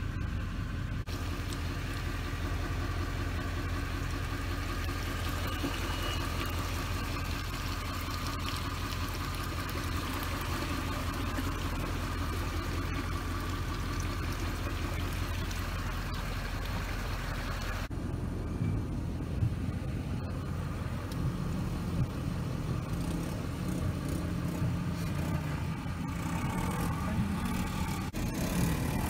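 Vehicle engine running steadily at low speed, heard from inside the cab as a low hum; its tone changes about two-thirds of the way through.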